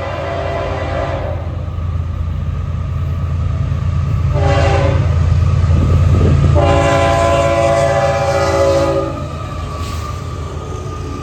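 A passing train's locomotive air horn sounds three blasts over the heavy rumble of the train. The first ends about a second in, the second is short, and the third is long, ending about nine seconds in. This long–short–long ending is typical of the grade-crossing signal.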